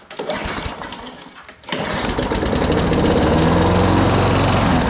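Walk-behind lawn mower engine being pull-started from a primed cold start: it catches about a second and a half in and then runs fast and steady, starting right up.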